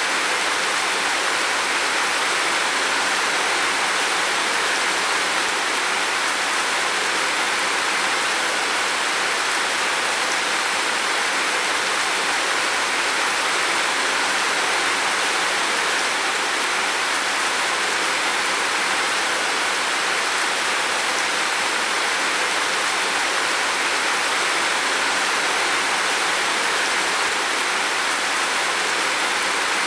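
Heavy rain falling steadily on a roof: an even, unbroken hiss with no let-up.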